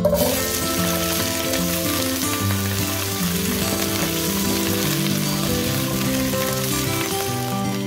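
Cubed potatoes sizzling in hot oil in a wok, the sizzle starting suddenly as they are tipped into the pan. Background music plays underneath.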